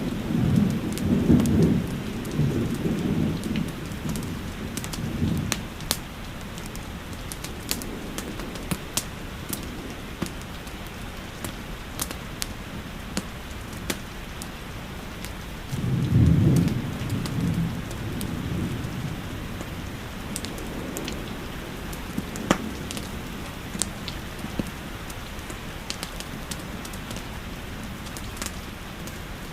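Steady rain with two low rolls of thunder, one in the first five seconds and another about sixteen seconds in. Scattered sharp clicks run throughout.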